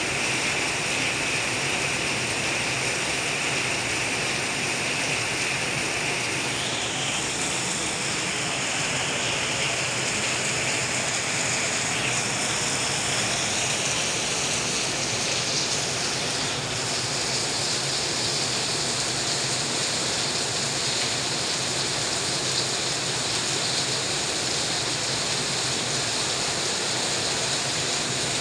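Heavy rain falling steadily, with runoff pouring off the roof edge in streams.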